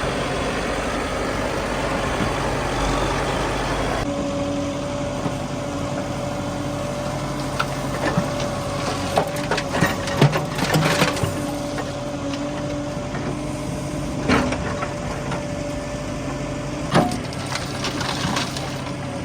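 Heavy diesel engine running steadily, with scattered sharp knocks and cracks in the second half.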